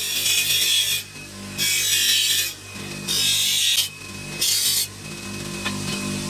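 A small power tool running steadily, pressed against the workpiece in four scraping strokes of about a second each, with the motor hum carrying on between them.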